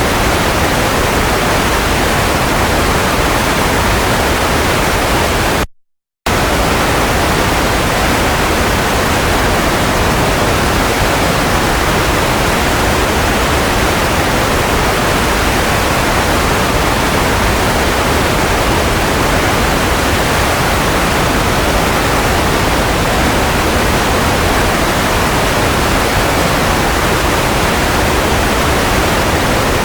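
Steady white noise, an even hiss across all pitches, that cuts out completely for about half a second around six seconds in, then resumes.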